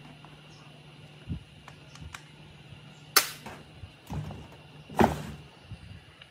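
Workshop handling noises: a few light clicks, then two loud sharp knocks about three and five seconds in, as parts or tools are knocked and set down, over a steady low hum.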